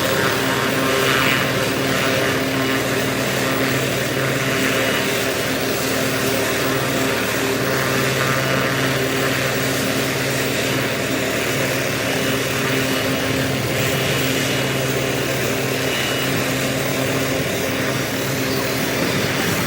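Helicopter running, its engine and rotor giving a continuous steady drone with held pitched tones.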